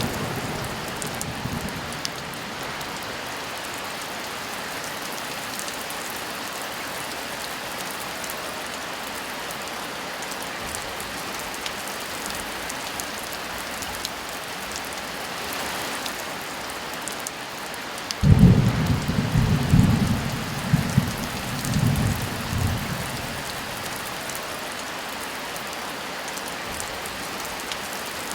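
Steady heavy rain falling. The tail of a thunder rumble fades out in the first couple of seconds. About 18 seconds in a thunderclap breaks in suddenly and rolls on in several waves of low rumble for about five seconds.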